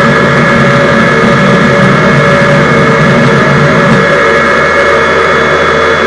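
Jet engine of the Hellfire jet truck running steadily and loudly, a continuous rush with a high, constant turbine whine over it.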